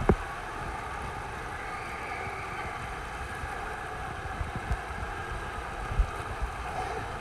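Steady rushing-water din of an indoor water park, with a few low thumps on the microphone.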